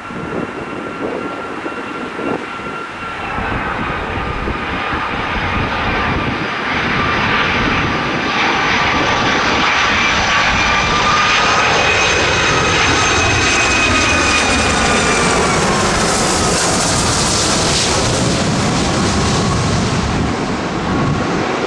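Jet airliner passing close by: its engines' whine grows louder and then slides down in pitch as the aircraft goes past, followed by a broad, loud roar.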